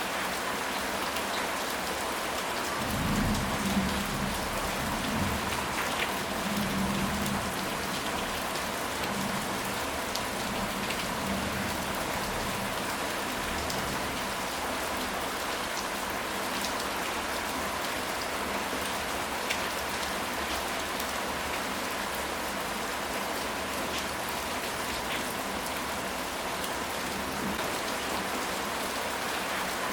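Steady rain falling, with a low rumble of thunder from about three to seven seconds in.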